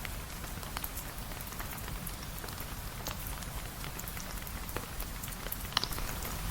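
Steady rain with a wood fire crackling: scattered sharp pops and ticks over the even hiss of the rain, one pop louder near the end.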